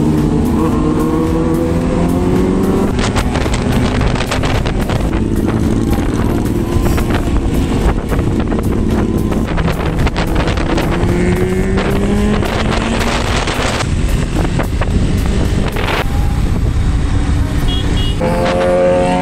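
KTM 390 Duke's single-cylinder engine running under way, its pitch rising as it accelerates at the start and again around eleven seconds in, with repeated gusts of wind noise on the microphone.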